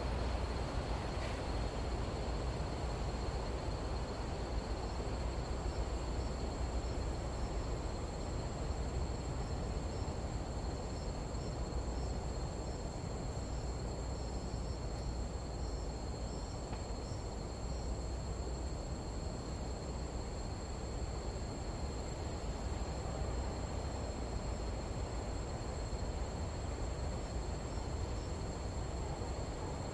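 Nighttime tropical jungle insect chorus: crickets and other insects keep up steady high trills, with faint rapid pulsing chirps among them, over a constant low rumbling noise like wind.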